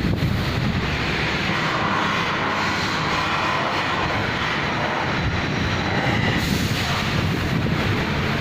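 Steady rumbling noise with no clear pitch, loud throughout.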